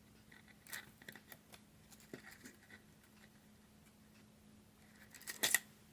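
Faint handling sounds of a pop-up sticker and its backing being peeled and pressed on: scattered light clicks and rustles, with a short, louder crackle about five and a half seconds in.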